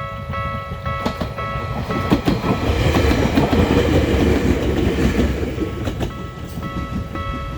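Level-crossing warning bells ring in a rapid pulsing pattern, about two strikes a second. Then an Ueda Electric Railway Bessho Line 6000 series electric train passes close by with a loud rush and wheels clacking over rail joints, drowning the bells for a few seconds. The bells sound clearly again near the end.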